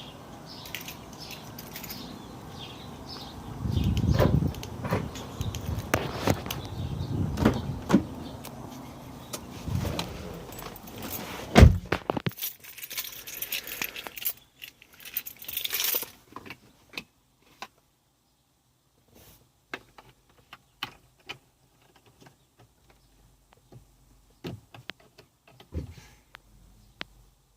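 Keys jangling amid knocks and handling noise, with one sharp loud click about halfway through, then scattered faint clicks.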